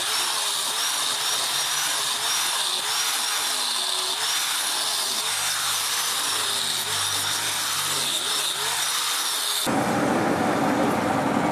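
A power tool running steadily on a workpiece with a high whine, its pitch dipping again and again as it is pressed into the work; it cuts off abruptly about nine and a half seconds in, and a different, lower noise takes over.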